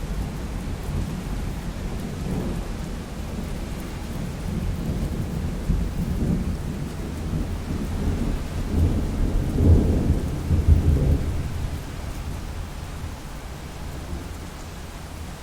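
Steady rain falling, with a low rumble of thunder that builds to its loudest about two-thirds of the way through and then fades.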